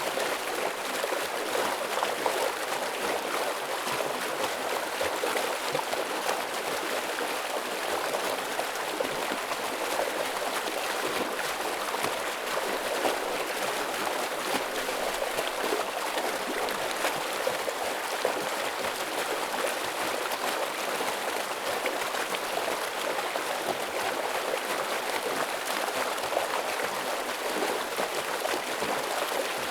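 Stream water rushing steadily over rocks, an even splashing flow.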